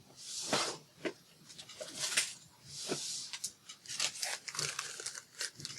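Paper and card being handled, with several short rustling, sliding swishes and small clicks and taps.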